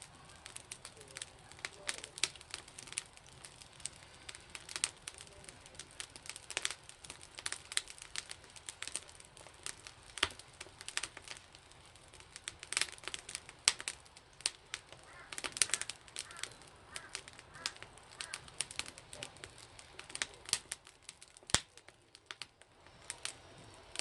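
Wood fire crackling, with many sharp, irregular snaps and pops.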